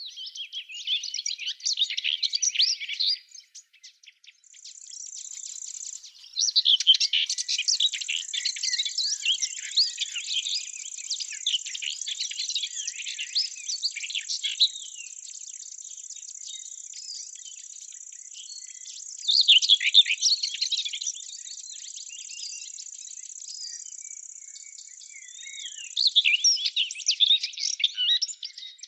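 Songbirds singing in bursts of rapid chirping notes, with a steady high-pitched insect buzz running underneath for most of the time.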